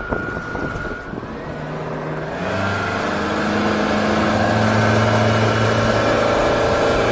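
Yamaha F200XB four-stroke outboard running under way, getting louder as it comes up in speed about two and a half seconds in, then holding steady over a hiss. Before that a high whine rises in pitch about a second in.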